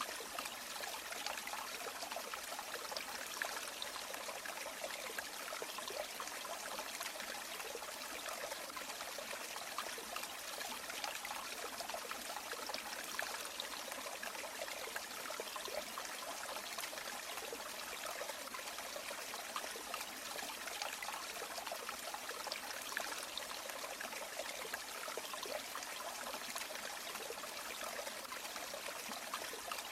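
River water running and trickling over stones, a steady babbling stream sound without pauses.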